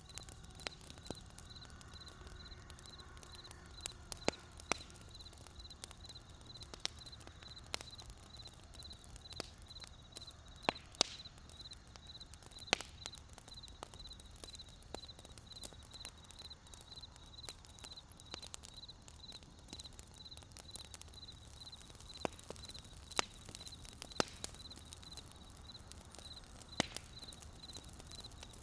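Wood campfire crackling: irregular sharp pops and snaps, a few louder than the rest, over a low rumble from the burning fire. A high, evenly pulsing chirp runs behind it.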